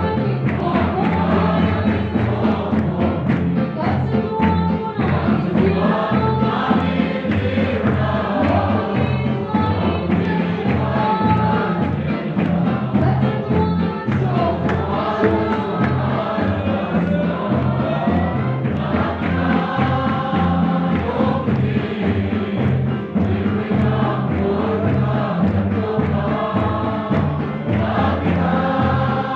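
A choir singing in chorus over instrumental accompaniment with a steady, rhythmic bass line.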